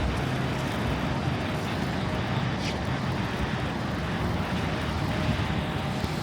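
Steady city street traffic noise, with gusting wind on the microphone.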